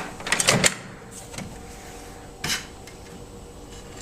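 A quick cluster of sharp clicks and knocks, then a single knock about two and a half seconds in: handling noise as things are set up at the microwave.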